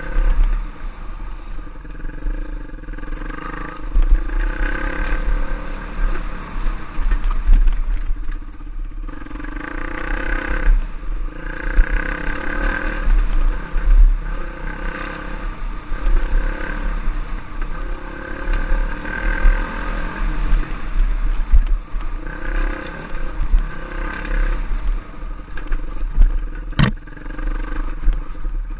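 Off-road trail bike engine running, its note rising and falling as the throttle opens and closes, over a heavy low rumble. There is one sharp knock near the end.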